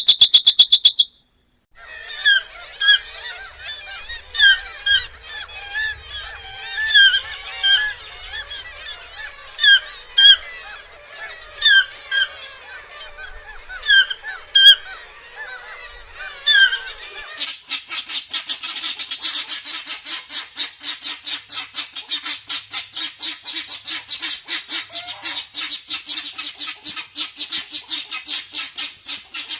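Bird calls: a short burst of high chirping, then a series of pitched calls about once a second. A little past halfway these give way to a fast, even pulsing call that keeps going.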